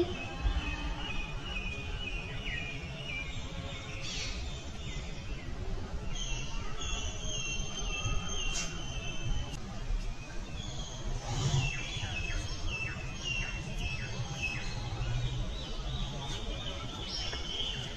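Small birds chirping in runs of quick, high, repeated notes, over a steady low background rumble.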